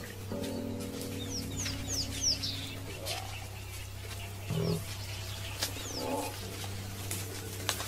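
Wild birds chirping in short, high, falling notes, a quick run of them about two seconds in and a couple more near six seconds, over a steady low hum. A few short, lower-pitched animal calls come between about three and six seconds.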